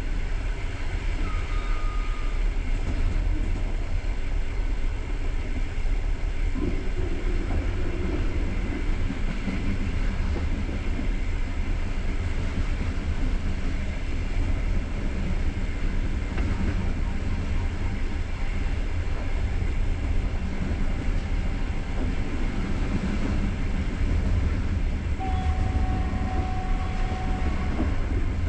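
Passenger train coach running along the track: a steady low rolling rumble of wheels on rail, with a brief faint tone about a second in and a longer one near the end.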